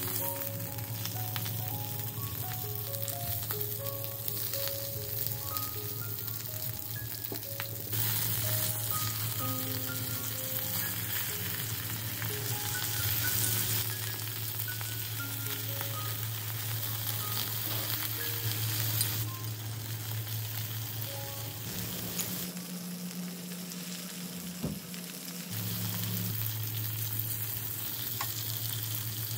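Cabbage wedges sizzling as they sear in a hot nonstick skillet, turned over now and then with a spatula.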